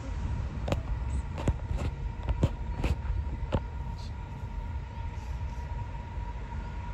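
Low rumble of an approaching Aurizon freight train's diesel locomotives, with a thin steady high whine throughout. Half a dozen sharp clicks come between about one and three and a half seconds in.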